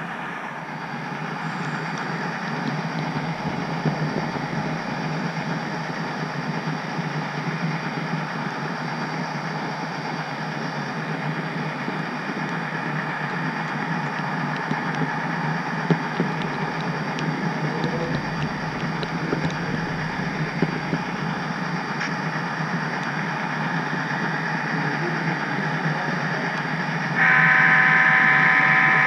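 HO-scale model freight train running, with a steady diesel engine rumble and the rattle of the wheels on the track, and a few light ticks. Near the end a loud chord horn starts suddenly and is held.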